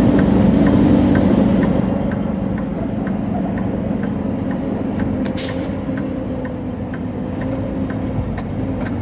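Heavy truck engine running steadily at low speed, with a light ticking about twice a second and a short hiss about five seconds in.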